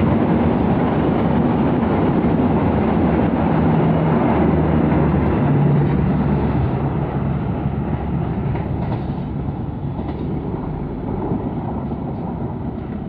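Passenger train running on the rails: a loud, steady rumble of wheels and running gear that slowly eases off over the second half.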